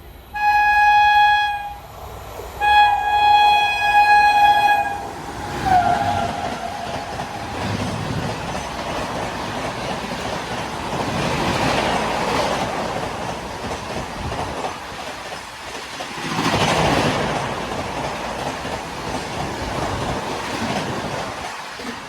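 Train horn sounding two blasts, the second longer, with a short lower note just after, then the rushing, rattling run of a train passing at high speed, which swells twice before fading.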